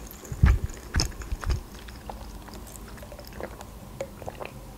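Close-miked chewing with wet mouth clicks: a few heavier chews about twice a second in the first second and a half, then only soft scattered mouth sounds.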